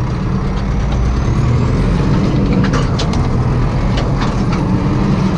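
Bizon Z056 combine harvester's diesel engine running steadily, a constant low drone with a few light clicks over it.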